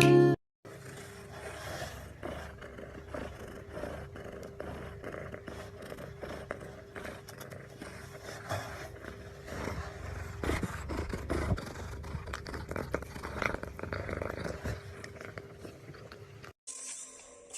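Irregular scraping and rustling with many small clicks, over a faint steady hum.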